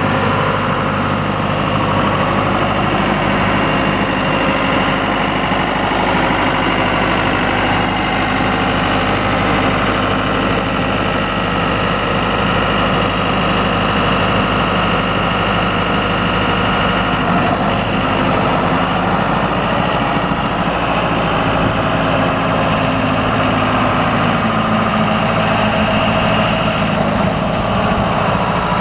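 John Deere 5100E tractor's four-cylinder turbodiesel engine running steadily, its pitch dipping slightly about two-thirds of the way through.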